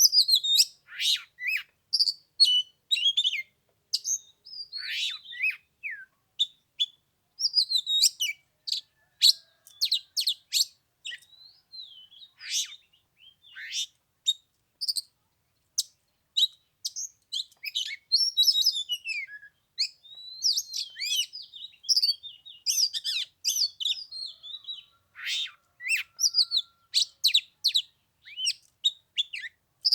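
Oriental magpie-robin singing: a fast, varied run of short whistles, chirps and quick rising and falling notes, with brief pauses between phrases.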